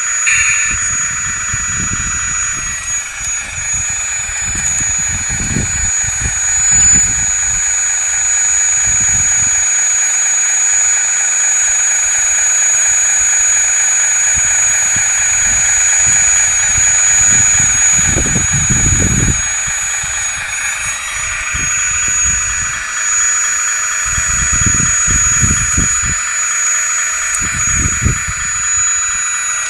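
Hydraulic pump of a 1/16-scale full-metal RC wheeled excavator running with a steady high whine. Its pitch shifts slightly about three seconds in and again about two-thirds of the way through, as the load on the hydraulics changes. Irregular low rumbles sound underneath.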